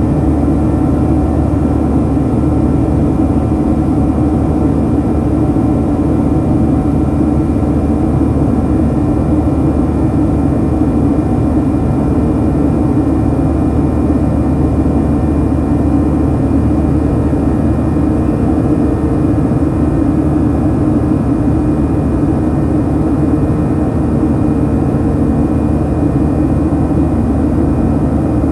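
Steady cabin drone of a Boeing 737-900 climbing after takeoff, heard from inside the cabin: its CFM56-7B jet engines hum, with several faint steady tones over the noise.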